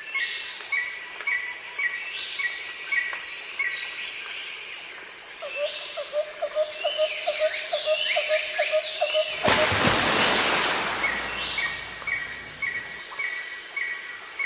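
Several birds calling together: a chirp repeated about three times a second, quick downward whistles, and a lower rapid run of notes from about five to nine seconds in. About nine seconds in there is a brief rush of noise lasting just over a second.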